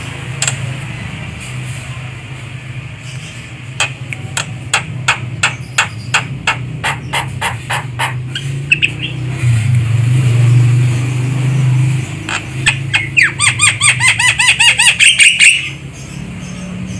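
Javan myna (jalak kebo) calling: a run of sharp, clicking notes, then a fast rattling chatter of repeated notes that stops shortly before the end. A steady low hum runs underneath and swells for a couple of seconds in the middle.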